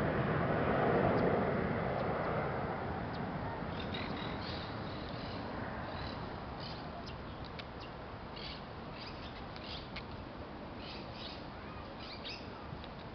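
An airliner passing overhead fades steadily away over the first several seconds. Short high bird chirps sound repeatedly from about four seconds in.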